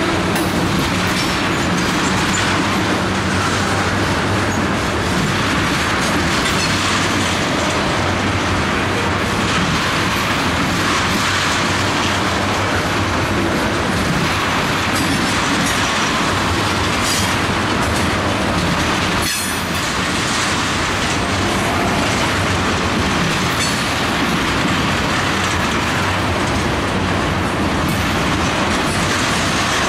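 Freight train of ethanol tank cars rolling steadily past, its steel wheels clattering over the rail joints in a continuous loud rumble.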